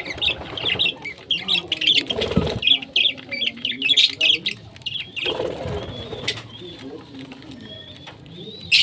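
Pet parrots chirping in quick, high, repeated calls, busy for the first half and thinning out later, with a few louder rustling bursts of movement in between.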